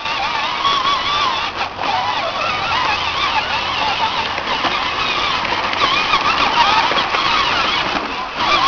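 A steady chorus of many overlapping wavering honking calls.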